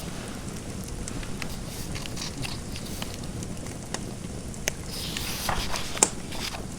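Wood fire in a fireplace crackling, with scattered sharp pops over a steady low rush; one louder pop about six seconds in.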